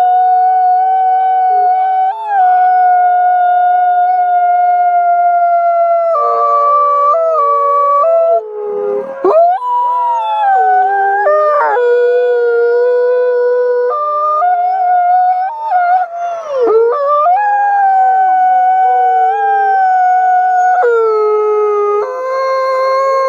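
A pack of wolves howling in chorus: several long, overlapping howls held on steady pitches, with some voices sliding up and down.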